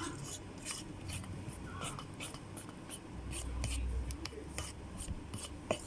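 A fork scraping and stirring through thick brownie batter, in repeated short strokes about two or three a second, with a sharp click near the end.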